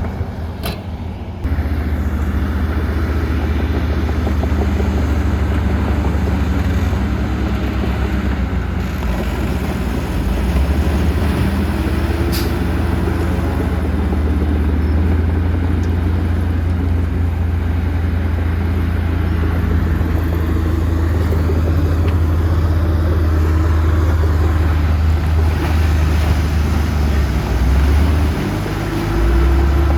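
Heavy diesel earthmoving machinery running steadily, its engine pitch slowly rising and falling as it works under changing load. It gets louder about a second and a half in.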